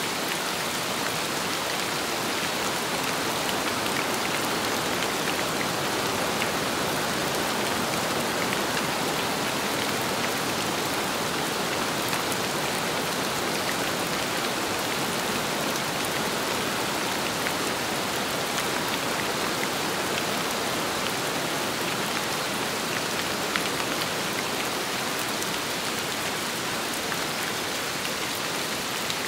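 Steady rain falling on a surface, with scattered small drop ticks.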